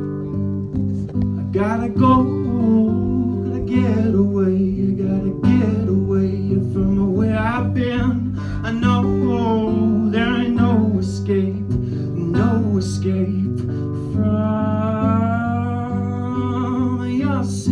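Live folk music: acoustic guitar strummed steadily, with a gliding melody line carried over the chords.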